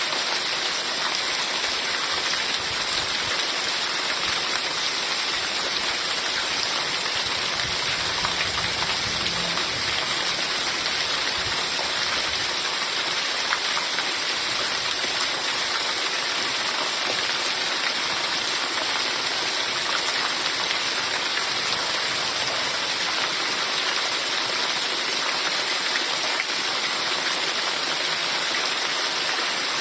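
Heavy rain falling steadily, an even hiss with no let-up, with a faint low rumble under it for a few seconds about a third of the way in.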